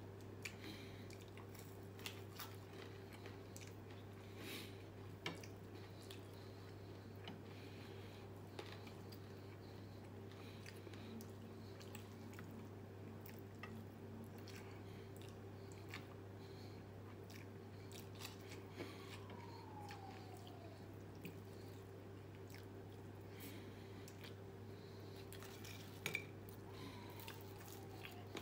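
Close-up chewing and biting of crispy fried chicken and rice eaten by hand, with scattered small crunches and mouth clicks over a steady low hum.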